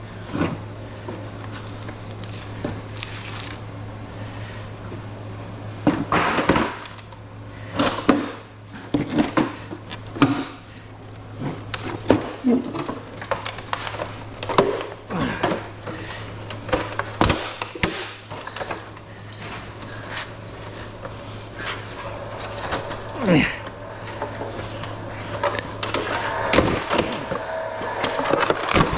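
Scattered metal clanks, knocks and short scrapes of hand tools and sheet metal as a window air conditioner is taken apart for scrap, over a steady low hum.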